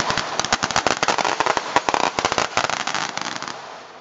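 Feu de joie: rifles firing blank rounds in a rapid, overlapping ripple of many shots down the ranks, which stops about three and a half seconds in and leaves a fading echo.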